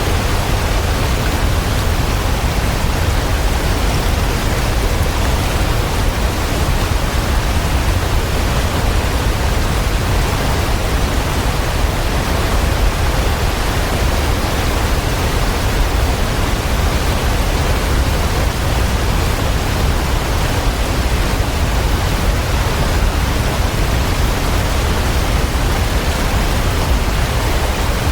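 Waterfall: a steady, unbroken rush of falling water, with the most weight in the low end.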